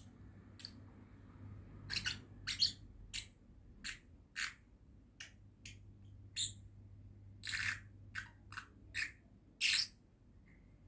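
Young lovebird calling: a string of short, high-pitched chirps at irregular intervals, a few of them drawn out longer.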